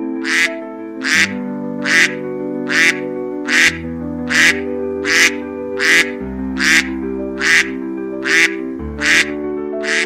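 A bird's short call repeated evenly about every 0.8 s, a dozen times, over background music with sustained chords.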